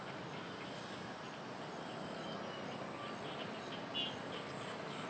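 Outdoor ambience: a steady background hiss with a faint, high, continuous insect drone, and one short, bright chirp about four seconds in.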